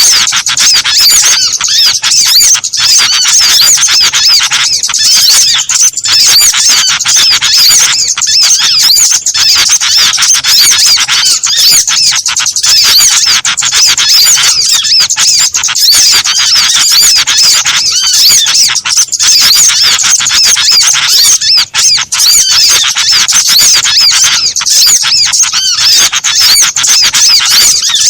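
A dense, non-stop chorus of many small birds chirping and twittering at once, high-pitched and loud. It is a bird-catching lure recording that combines the calls of several small songbird species.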